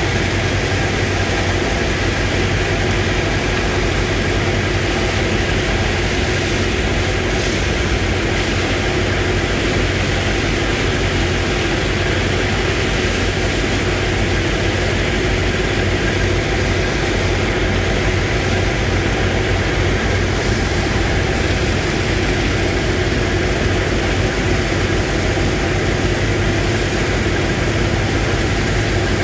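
Engine driving a sand boat's pump, running steadily at a constant speed with an even low drone.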